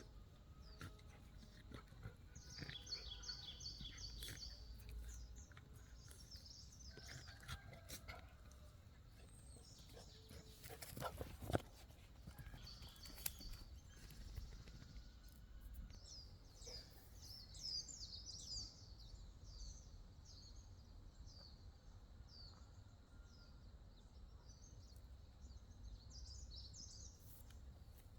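Faint outdoor ambience with small birds chirping again and again, in quick rows of short high notes, and a single sharp click about eleven seconds in.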